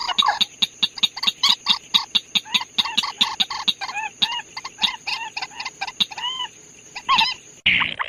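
Purple swamphen (chim trích) calling in a rapid run of short, clucking notes, about five a second, over a steady high tone. Near the end it cuts abruptly to a harsher, rasping call.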